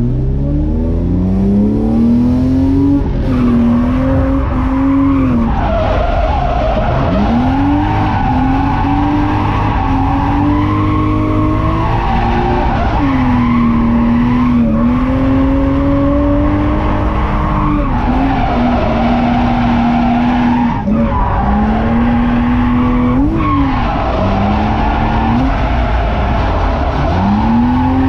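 BMW E30's M50B25 straight-six heard from inside the cabin while drifting, its revs climbing and falling again and again with sharp drops every two to three seconds, over tyre squeal.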